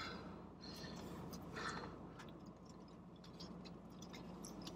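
Faint chewing and mouth sounds of people eating ghost pepper noodles: small wet clicks scattered throughout, with a couple of short hissing breaths in the first two seconds.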